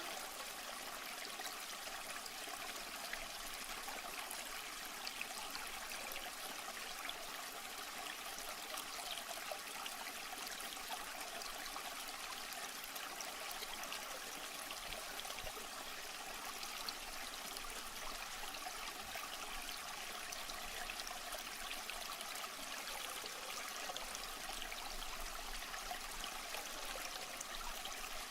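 Running water trickling and splashing steadily, with small drips and bubbles throughout.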